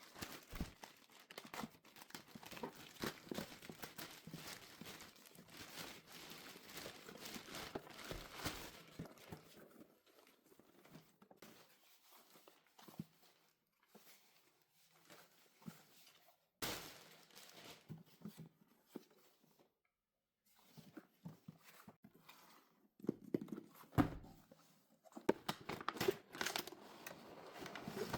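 Toy car packaging being unwrapped by hand: plastic and paper crinkling and tearing, on and off, with a few knocks.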